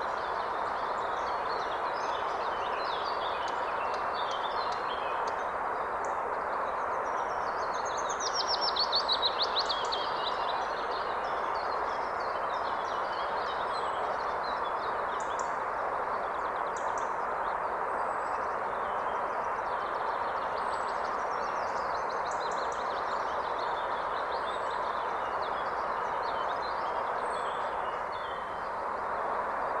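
Steady rushing of a forest river, with several songbirds singing above it. One bird gives a loud rapid trill about eight seconds in.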